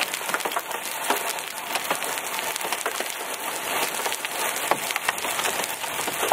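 Hailstones of penny to quarter size pelting a car's roof and body, a dense, steady clatter of hard ticks over a hiss of rain.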